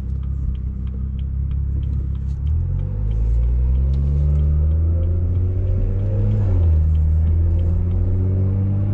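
BMW 340i's turbocharged straight-six through a straight-piped exhaust, accelerating. The engine note steps up in pitch and gets louder about two and a half seconds in, climbs, drops at a gear change just past the middle, then climbs again.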